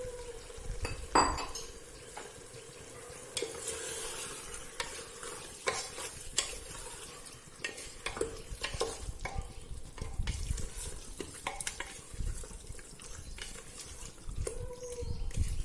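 Chicken being stirred and fried in a pan of tomato and ginger-garlic masala: a cooking utensil scraping and knocking against the pan over a light sizzle, with a sharper knock about a second in.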